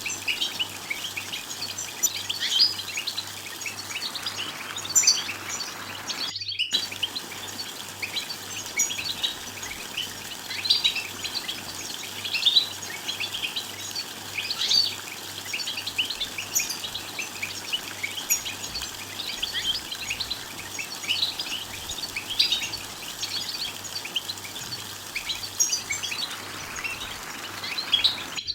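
European goldfinch twittering song: a rapid, continuous run of short, high chirps and trills, broken by a brief silent gap about six seconds in.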